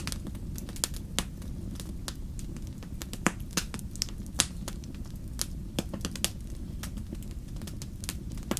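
Wood campfire burning: irregular crackles and sharp pops, the loudest a little over 3 and 4 seconds in, over a steady low rumble.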